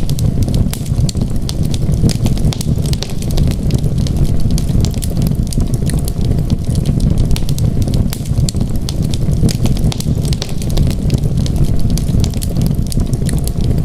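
Wood fire crackling with many sharp, irregular snaps over a steady low rumble.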